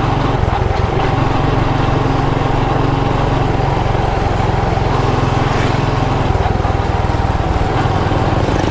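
Small motorbike engine running steadily while riding, with road and wind noise; the engine note shifts slightly about six seconds in.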